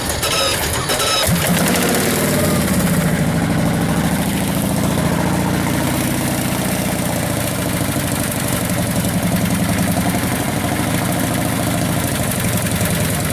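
5000 cc Rolls-Royce Merlin V-twin motorcycle engine starting about a second in, then idling with a low, even pulsing beat.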